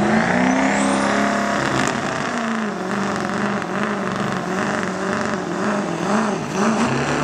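Ford Powerstroke turbo-diesel pickup making a full-throttle sled pull. Its turbo whistle climbs steeply over the first second and a half and then holds high, while the engine note under load rises and falls again and again.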